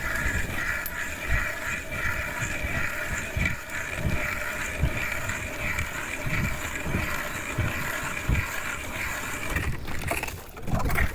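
Strong wind buffeting the microphone in gusts, with a steady high whine underneath that stops about ten seconds in.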